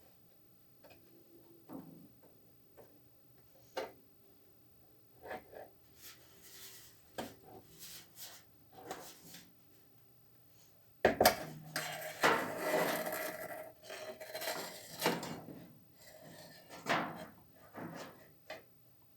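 Hand tools and hard parts being handled during washing-machine reassembly: scattered clicks and knocks, then about eleven seconds in a loud clatter of parts knocking and scraping for about four seconds, with a few more knocks near the end.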